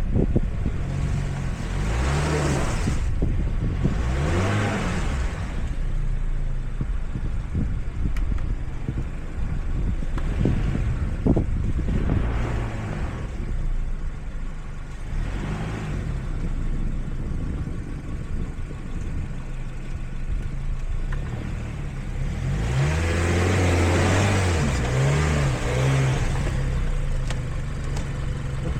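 A car engine running steadily, revving up and back down a few times, with the longest rise near the end. Several bursts of rushing noise come and go over it, the longest and loudest near the end.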